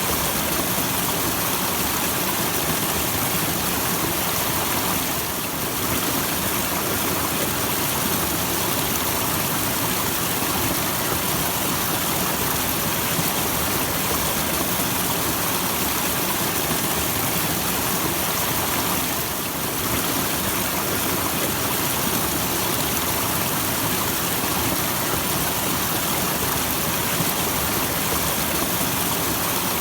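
Small waterfall rushing steadily, an even hiss of falling water with two brief slight dips in level.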